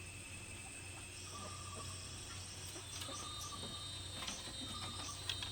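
Crickets or other insects chirring steadily, with a short call repeating about every second and a half. A few light knocks come in the second half.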